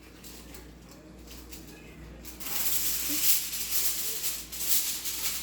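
Aluminium foil being pulled off the roll and crinkled: a dense, crackly rustle that starts a little over two seconds in.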